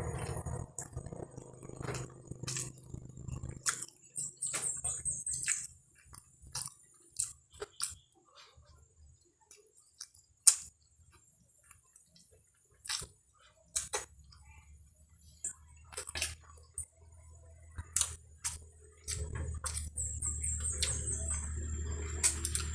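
Close-up eating of fried cempedak skin: irregular crisp crunches and chewing, with quiet gaps between bites. A steady low background sound comes back near the end.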